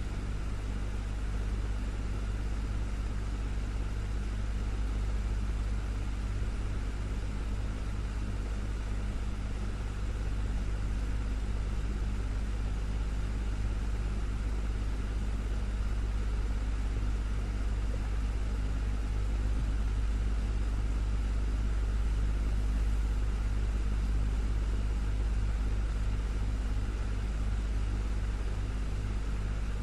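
Desktop electric fan running steadily: a constant deep drone with a faint steady hum and an even rush of air above it.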